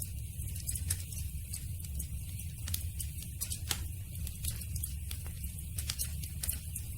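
Campfire burning: wood crackling with irregular sharp pops over a steady low rumble.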